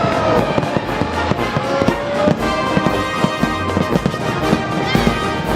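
Music playing, with irregular firework bangs and crackles mixed in.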